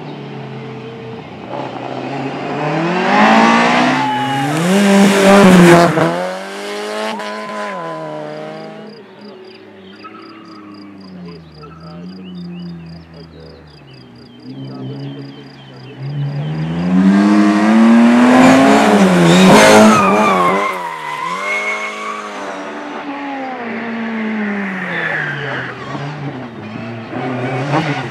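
Rally cars at speed: the engines rev up and drop back with each gear change and throttle lift. The cars come loudest about four to six seconds in and again around twenty seconds in, with a car revving further off in between.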